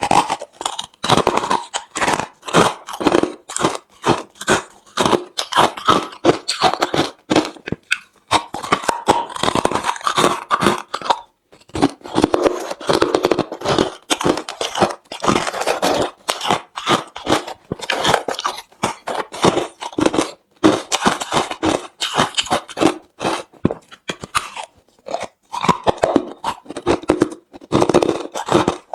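Close-miked chewing of hard refrozen crushed ice: rapid, loud crunches, several a second, with a few brief pauses between mouthfuls.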